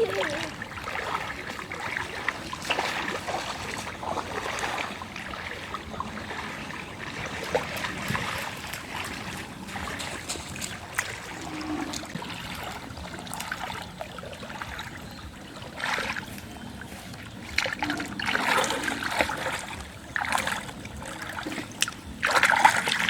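Water splashing and trickling in irregular bursts, as someone wades or works in shallow floodwater.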